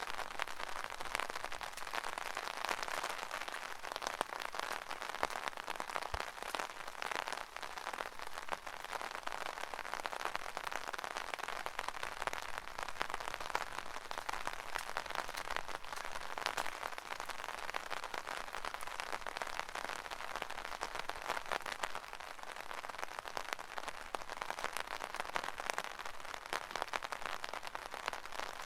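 Steady rain pattering on an umbrella: a dense hiss of many small drop hits, with a heavier drip standing out now and then.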